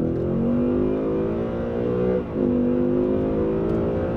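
Car engine accelerating hard, heard from inside the cabin: its pitch climbs, drops briefly about two seconds in as the transmission shifts up a gear, then climbs again.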